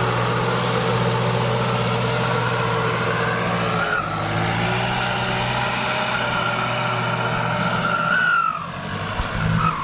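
Kubota tractor's diesel engine running steadily under load, with the whine of its aftermarket VGS turbocharger rising in pitch about four seconds in and again near the end. The engine note dips briefly just before the end.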